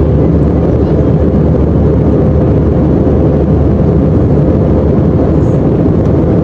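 Steady roar of an airliner in flight heard from inside the cabin: engine and airflow noise, low and even, with a faint steady hum.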